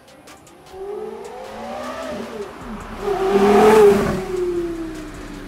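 Porsche Carrera GT's 5.7-litre V10 accelerating toward and past the listener. The pitch climbs, dips briefly about halfway, rises again and is loudest as the car goes by near the end, then slides down as it moves away.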